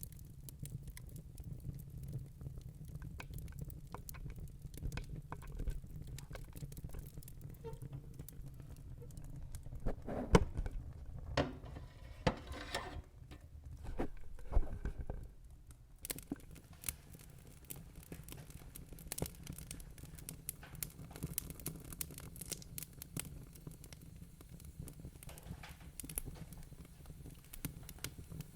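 Wood logs burning in a fireplace, crackling with many small sharp pops over a low steady rumble of flame. A run of louder pops comes just before the middle; later the low rumble drops away and the fine crackling goes on.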